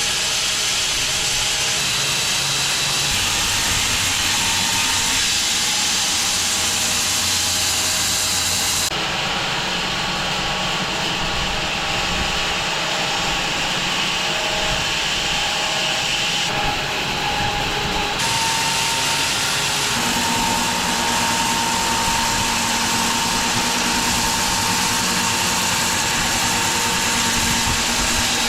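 Large bandsaw mill running as it cuts through an English walnut log. The steady sawing noise changes character about nine seconds in and again a little later.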